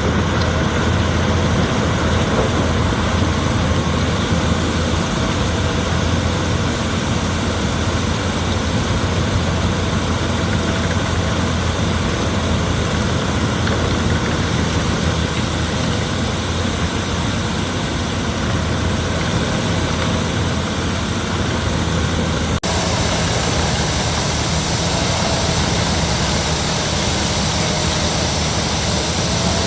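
Albach Diamant 2000 wood chipper running steadily, with a thin, wavering high whistle over the engine. There is a sudden break about three-quarters of the way through, and then the same steady running carries on.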